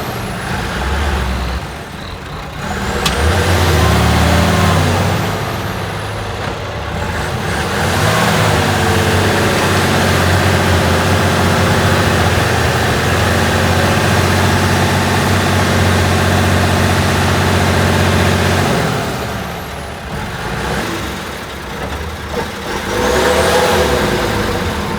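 Praga V3S 6x6 truck's air-cooled six-cylinder diesel engine revving up in bursts, then held at steady high revs for about ten seconds before easing off, with another short rev near the end.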